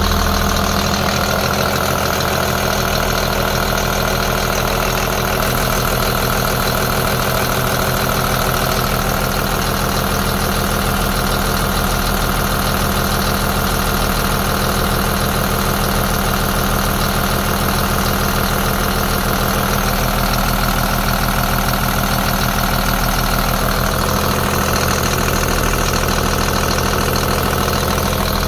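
2005 Caterpillar C7 turbocharged inline-six diesel engine idling steadily.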